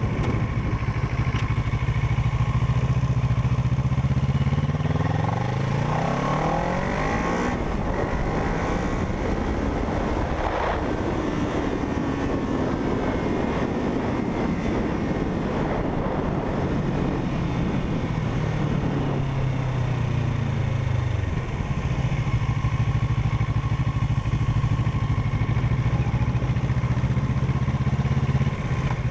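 Parallel-twin motorcycle engine running under a rider. Its note rises over several seconds, peaks about ten seconds in, then falls back and settles into a steady low run for the last several seconds.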